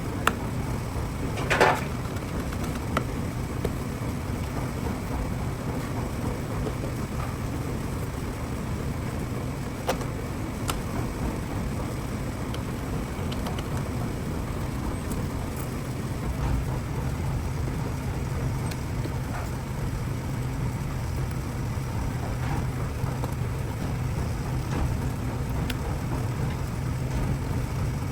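Workshop machinery humming steadily, with a few sharp metal clicks and one short ringing clank about a second and a half in.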